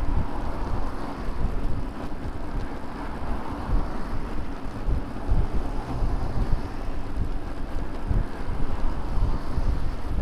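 Wind buffeting the microphone of a bike-mounted camera while riding, a gusty low rumble over a steady rush of road noise.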